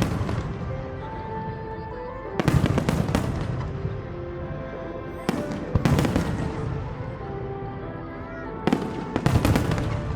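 Aerial fireworks shells bursting in quick clusters of several sharp bangs, one cluster about every three seconds, each followed by a low rumbling echo, with music playing throughout.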